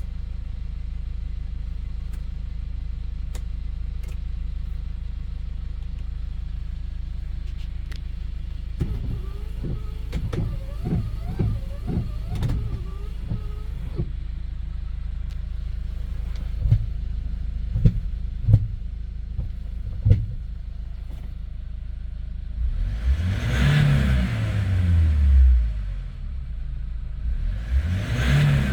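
Hyundai Porter II truck's engine idling steadily, with a wavering whine for a few seconds in the middle and a few sharp clicks after it. Near the end the engine is revved twice, each time falling back to idle.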